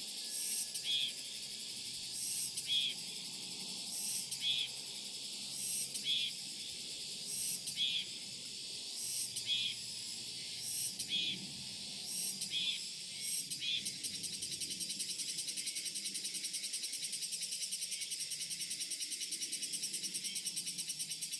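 Cicadas singing: high-pitched pulsed calls repeating a little more than once a second, then about two-thirds of the way in a continuous, fast-pulsing buzz takes over.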